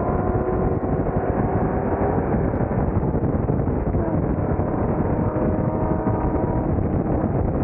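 Chevrolet Camaro ZL1's supercharged V8 running at steady highway speed, a constant engine note of several tones over a heavy rumble of road and wind noise.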